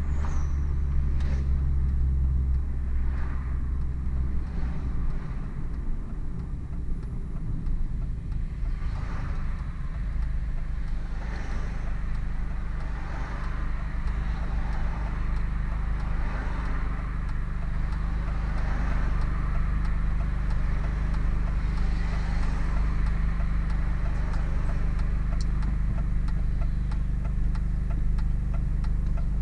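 Hartge MINI's engine running through its Hayward & Scott aftermarket exhaust: a steady low drone that shifts in pitch about six seconds in and then holds.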